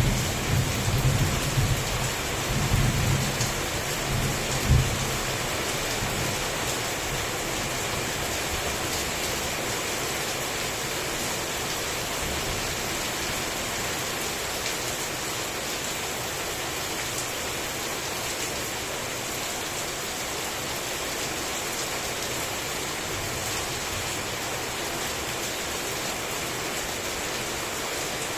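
Heavy rain falling steadily, with a rumble of thunder in the first few seconds ending in a sharp crack, then rain alone.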